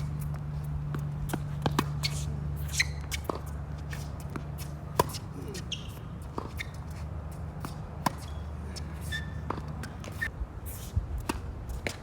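Tennis being played: scattered sharp knocks of racquet and ball and scuffs of footsteps on the court, over a steady low rumble that eases near the end.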